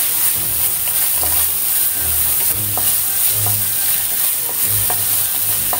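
Chopped onions, garlic and green chillies with ginger-garlic paste sizzling in hot mustard oil in a nonstick pan, stirred and pushed around with a wooden spatula. There are light ticks as the spatula meets the pan.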